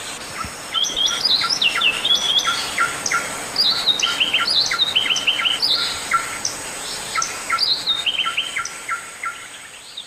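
A songbird singing a fast, varied song of short chirps and down-slurred whistles, repeated without pause, growing fainter near the end.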